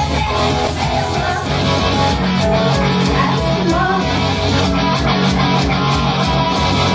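Live rock band playing an instrumental passage: strummed electric guitar over a steady drumbeat, with no singing.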